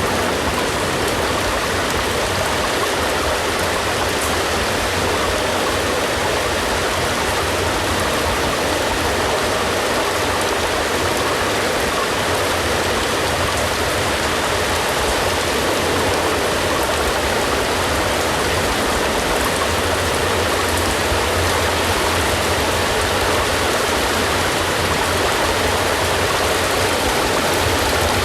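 Steady rain, an even, unbroken hiss of falling water.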